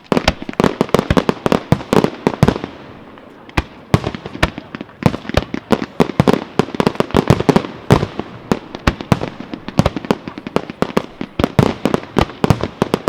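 Fireworks display: a rapid, dense string of sharp bangs and reports, easing off briefly about three seconds in before picking up again just as densely.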